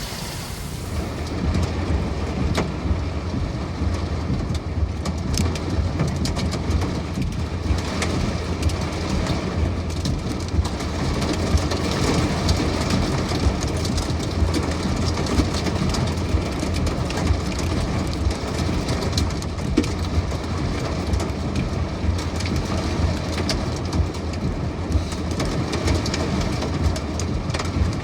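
Heavy thunderstorm rain beating on a vehicle, with many sharp ticks of drops over a steady low rumble.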